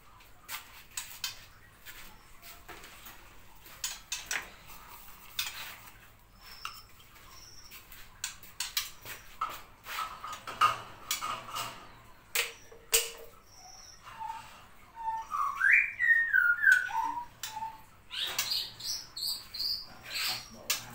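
Scattered clicks and light clatter from handling a canary cage and its plastic drinker, with canaries chirping. About three-quarters of the way through comes a short run of whistled, rising and falling notes, and a burst of high chirps follows near the end.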